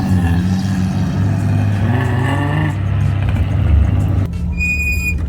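A car engine running, with a rise in revs about two seconds in. About a second before the end the engine sound drops away abruptly and a steady high-pitched tone sounds.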